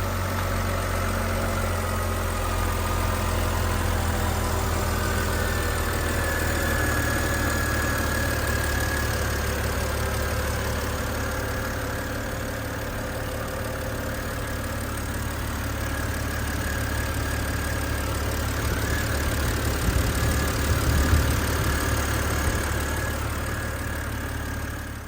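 2009 BMW 128i's 3.0-litre straight-six engine idling steadily with a low, even hum, briefly louder about twenty seconds in.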